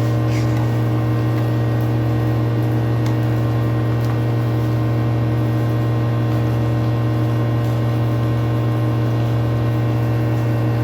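Steady low hum with several unchanging tones above it, like a running motor or electrical hum, with no change in pitch or level.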